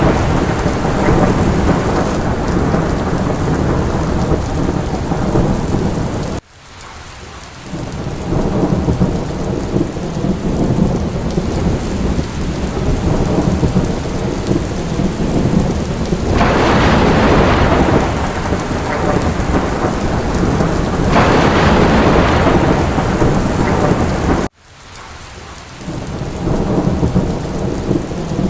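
Steady heavy rain with thunder rumbling underneath, swelling louder twice in the second half. The sound cuts out abruptly twice, about six seconds in and near the end, and fades back in each time.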